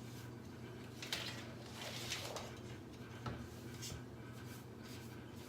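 Faint handling sounds while painting: a few soft clicks, knocks and a brief scrape about two seconds in, over a low steady hum.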